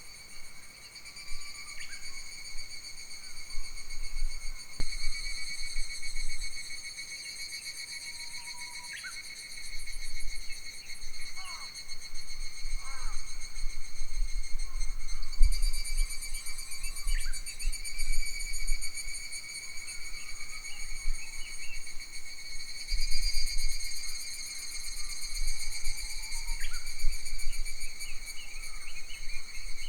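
A steady, high-pitched chorus of summer insects, with short bird calls scattered through it and bouts of low wind rumble on the microphone.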